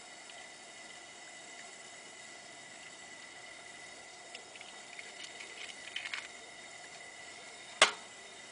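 Handling sounds at a camp-stove pan: a run of light clicks and taps, then one sharp, loud click near the end, over a faint steady hiss.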